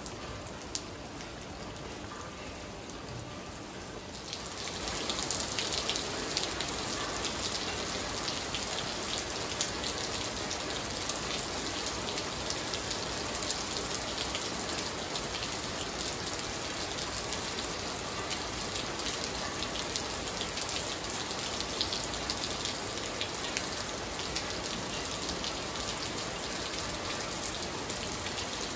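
Rain falling on a wet tiled patio and a shallow puddle. It grows heavier about four seconds in and then comes down steadily, with separate drops splashing close by.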